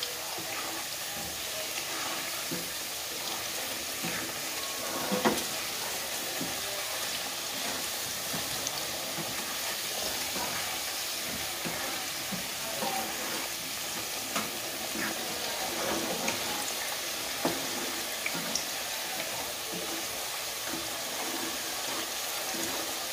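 Sweet potato slices deep-frying in oil and sugar in a wok, with a steady sizzle. A wooden spatula stirs them with occasional light taps and scrapes, and gives one louder knock about five seconds in.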